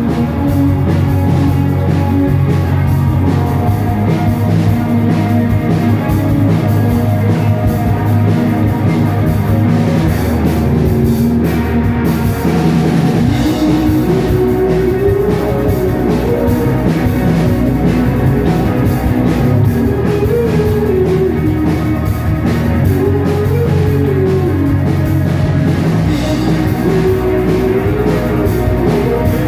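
Live rock band playing with a drum kit and guitars. A wavering melodic line comes in about halfway through and rides over the full band.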